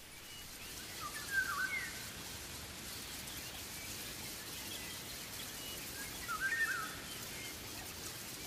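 Outdoor ambience of a steady hiss, with a bird calling twice in short, warbling phrases: about a second in and again about six seconds in.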